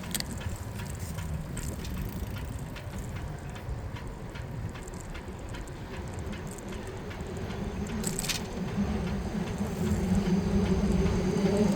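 Bicycle riding on a city street: tyre and road rumble with frequent light rattles and clicks from the bike. A short rushing noise comes about eight seconds in, and a low vehicle hum grows louder near the end.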